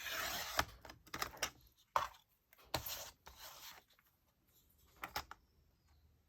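Paper and card being handled at close range: a few short bursts of rustling and sliding with light taps and clicks, mostly in the first three seconds, then a brief rustle about five seconds in.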